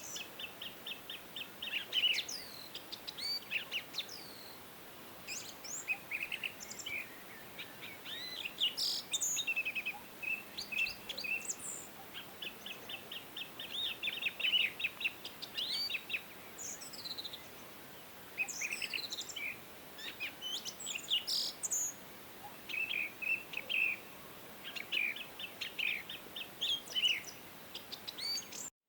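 Several songbirds singing and calling over one another: quick chirps, rapid trills and short whistled phrases, over a faint steady hiss. The sound cuts out briefly near the end.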